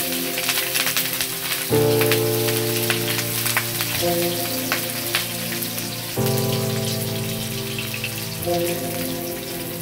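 Sliced shallots and garlic frying in hot oil in a non-stick wok, a steady sizzle full of small crackling pops. Background music with held chords that change twice plays underneath.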